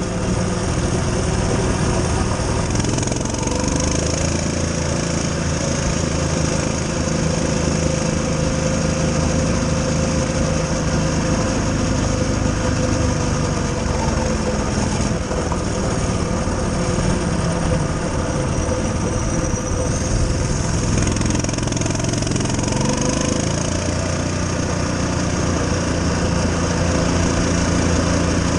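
Coleman CT200U-EX mini bike's small single-cylinder four-stroke engine running under way, its pitch rising and falling repeatedly as the throttle is worked while riding.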